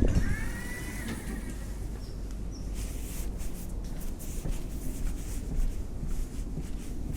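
A train running with a steady low rumble. A brief high squeal comes just after the start, and scattered clicks and knocks come through the rest.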